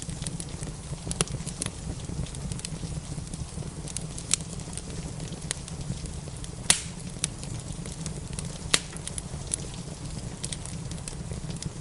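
Wood fire crackling in a fireplace, with many small snaps and a few louder pops, the loudest a little past halfway, over a steady low rumble and the hiss of falling rain.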